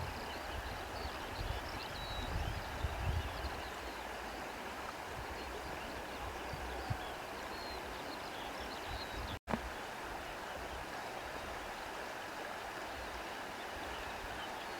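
Wind blowing steadily, with low gusts rumbling in the first few seconds and faint bird chirps above it. The sound cuts out for an instant about nine seconds in.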